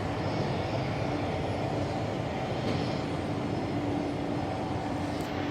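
Jet airliner engines running at a steady pitch: an even rushing noise with a constant low hum.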